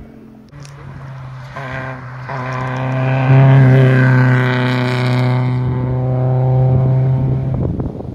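Rally car engine at high revs on the stage, growing louder as the car comes closer, then holding a loud, steady note for several seconds before it cuts off abruptly near the end.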